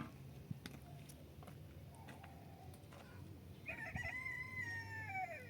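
A rooster crowing once, a single long call starting about two-thirds of the way in and falling in pitch at its end, with a few faint knocks before it.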